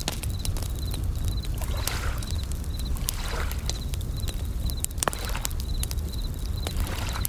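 Campfire crackling with sharp pops over a low rumble of waves washing in, while bell crickets (suzumushi) sing in short repeated bursts of a high ringing tone.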